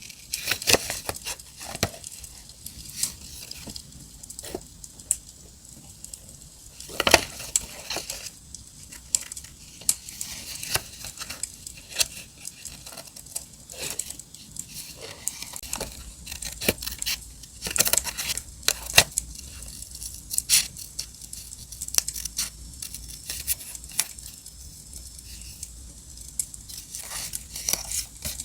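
Paper and stickers being handled: tearing, peeling and crinkling in irregular sharp snaps and rustles, the loudest about seven seconds in. Underneath runs a steady crackling hiss from an added campfire sound.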